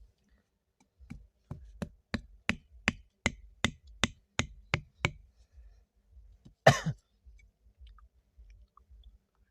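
A run of about a dozen sharp knocking strikes, roughly three a second, then a single louder, longer impact about a second and a half later.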